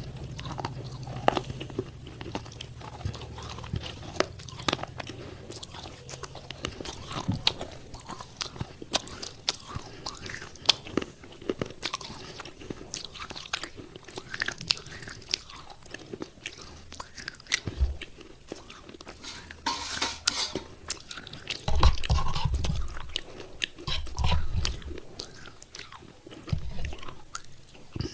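Pieces of thick broken clay pot being bitten and chewed close to the microphone: a dense, irregular run of sharp, crisp crunches, with a few deeper thuds in the last third.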